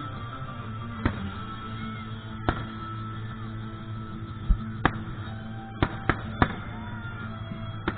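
Fireworks bursting: about eight sharp bangs at irregular intervals, several close together in the second half, over steady background music.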